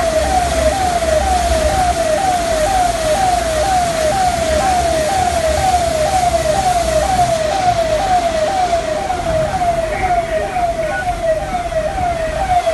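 Electronic siren or alarm sounding a repeating falling tone, about two sweeps a second, over a steady hiss of rain.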